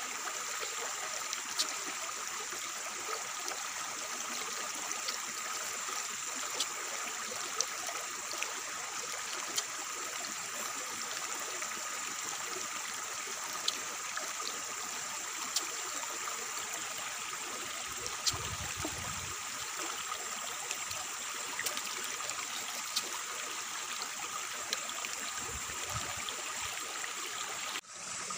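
Fruit being bitten and chewed, with small clicks here and there, over a steady outdoor hiss that carries a constant high buzz.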